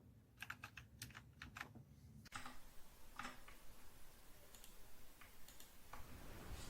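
Faint typing on a Dierya T68SE 60% mechanical keyboard with blue switches: a quick run of clicky keypresses in the first two seconds, then sparser clicks.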